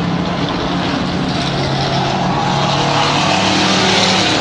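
Stock race trucks' engines running at speed around a dirt oval, a steady drone that swells a little near the end as the trucks come closer.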